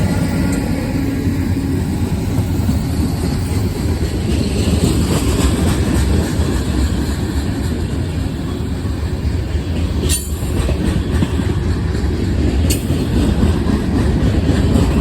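Norfolk Southern mixed freight train rolling past: a steady, loud rumble of diesel locomotives and freight cars on the rails. Two sharp clicks come late on, about two and a half seconds apart.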